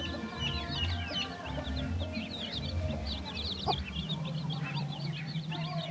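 Many young poultry peeping rapidly and continuously in short high chirps as they feed, with background music underneath.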